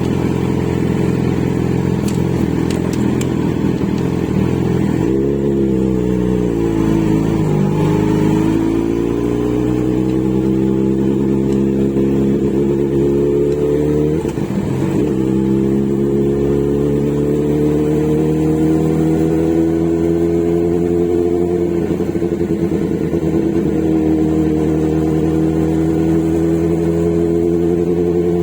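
Inline-four motorcycle engine running under way, its pitch climbing slowly through each gear and dropping sharply at gear changes several times.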